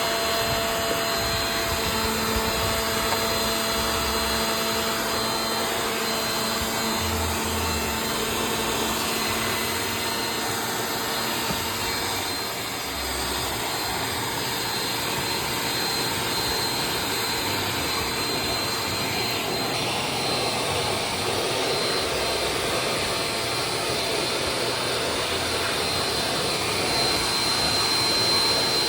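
Vacuum cleaner running steadily, a constant rushing noise with a thin high whine.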